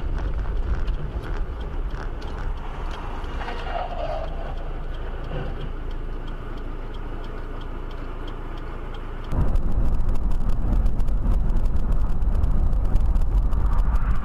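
Road and engine noise from a moving car, heard from inside the cabin. About nine seconds in it changes abruptly to a louder, heavier rumble with rapid crackling.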